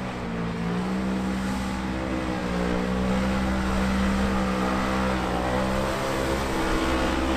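Off-road vehicle engine running hard while driving through a mud-bog pit. Its pitch holds fairly steady, with slow rises and dips.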